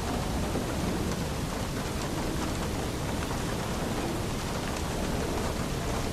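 Steady rain falling, an even hiss, with a low rumble of thunder underneath.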